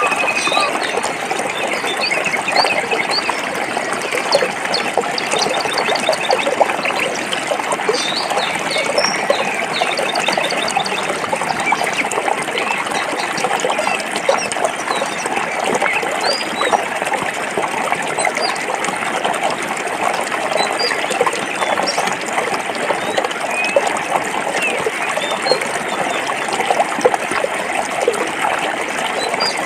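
A forest stream running over rocks, a steady babbling rush of water. Birds chirp and trill above it at intervals, more often in the first half.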